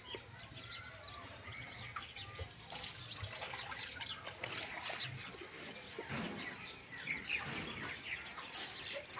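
Small birds chirping repeatedly in a cattle yard, many short high chirps scattered throughout, with light drips and splashes of water mixed in.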